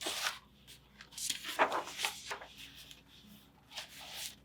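Paper rustling and sliding, several quick swishes, as the pages of a hardcover picture book are turned and handled.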